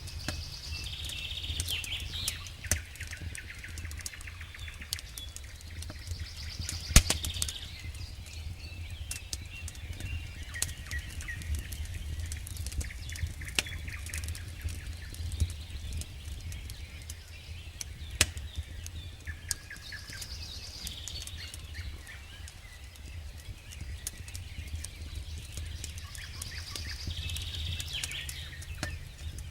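Campfire burning with wood crackling: frequent sharp pops and snaps, one loud pop about seven seconds in, over a steady low rumble. A high animal call repeats about every six or seven seconds in the background.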